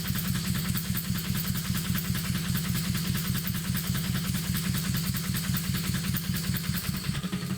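Motorised Lego Technic earthquake shake table running, a fast, even mechanical rattle of plastic parts that cuts off at the very end.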